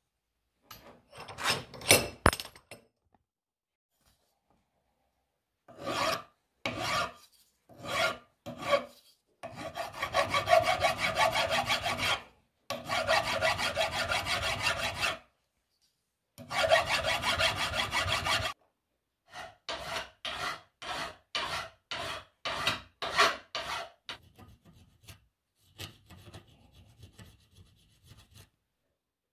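Flat hand file scraping back and forth over a steel wire cable clamped in a bench vise. The strokes come in bursts with short pauses between: a few separate strokes, then long runs of rapid strokes, then quicker short strokes that turn faint near the end.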